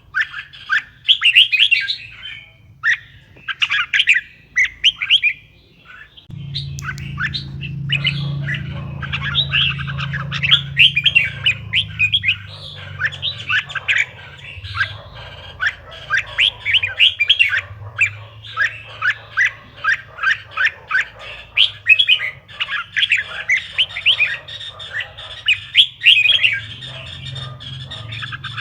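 Red-whiskered bulbuls singing: a dense run of quick, sharp chirping phrases, several birds at once, with a steady low hum underneath from about six seconds in.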